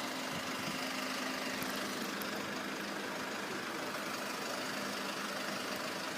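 Steady hum of a vehicle engine idling.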